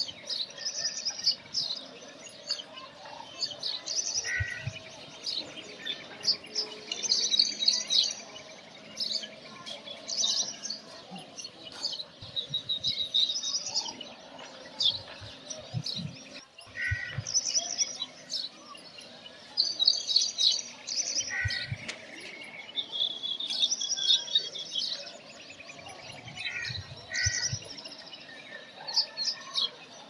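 Small songbirds chirping and singing in short, high phrases that repeat every few seconds.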